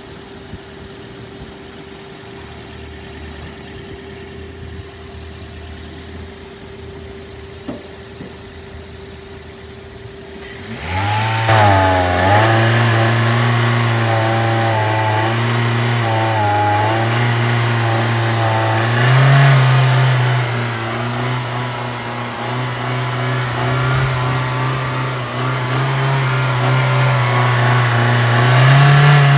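A 2015 Nissan Pathfinder engine starting a little over ten seconds in, flaring up briefly and settling into a steady idle that runs well, with slight rises in engine speed twice later on. Before it starts there is only a quieter steady hum with a faint steady tone.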